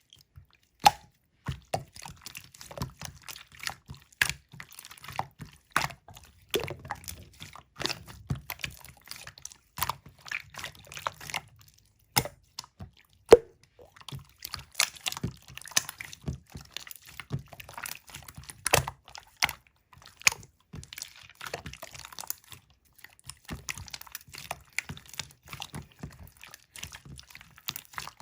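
Clear slime being squeezed and pressed by hand, making irregular sticky clicks and wet pops.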